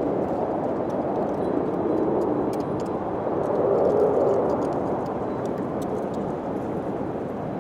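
Wind blowing steadily, swelling briefly about four seconds in, with faint scattered clicks over it.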